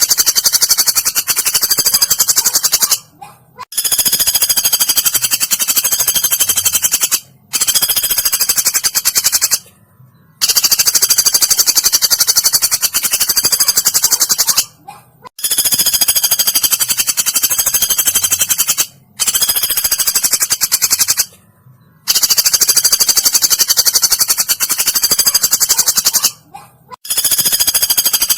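Woodpecker calls: a very rapid, high-pitched rattling trill, given in runs of about two to four seconds separated by brief pauses.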